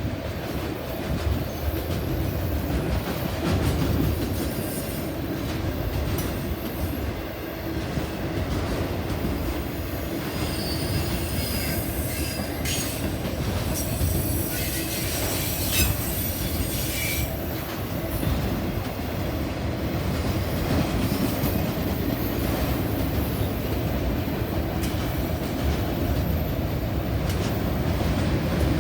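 A train rolling past on the rails: a steady rumble of wheels on track, with high-pitched wheel squeal and sharp clicks coming through around the middle.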